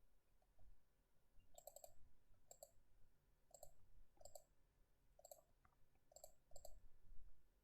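Faint computer mouse clicks, about eight, spaced irregularly.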